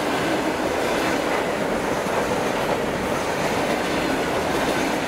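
Electric commuter train (elektrichka) passing close by at speed: a steady, loud rush of wheels on rails and carriages going past.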